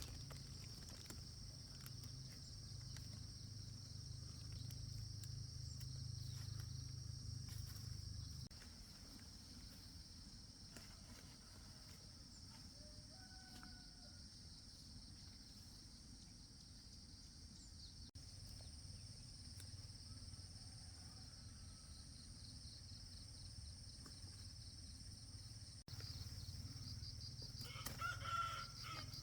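A rooster crowing once near the end, over a steady high insect-like drone.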